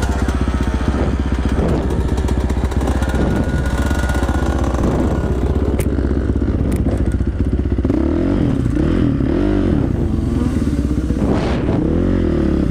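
Dirt bike engine running while riding a trail, its revs rising and falling repeatedly in the last few seconds, with occasional clatter from the bike.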